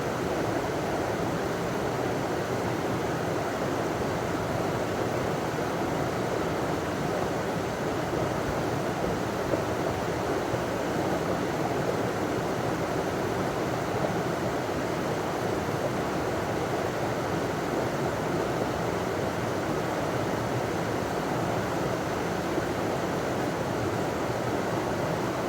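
River water running over a small waterfall: a steady, even rush with no pauses or changes.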